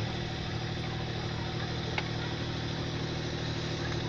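Toyota Highlander engine idling steadily, with a single light click about two seconds in.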